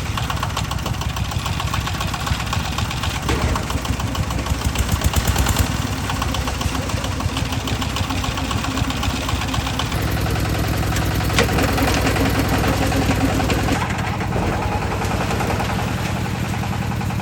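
Concrete mixer's engine running steadily; its low note shifts slightly about ten seconds in and again near fourteen.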